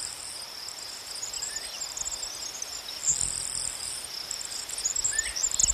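Insects trilling steadily on one high pitch, with bursts of high chattering, one longer burst about three seconds in and more scattered chirps near the end.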